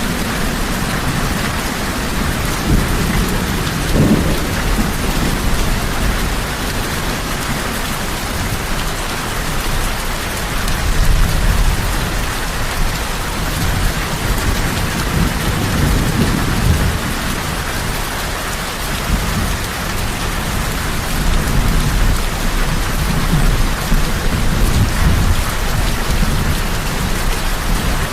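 Heavy rain falling steadily, with low thunder rumbling underneath that swells and fades several times.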